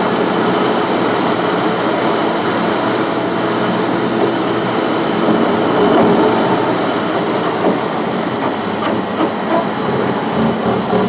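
Steady rumble of a car's tyres and road noise heard from inside the moving car, with a few small knocks near the end.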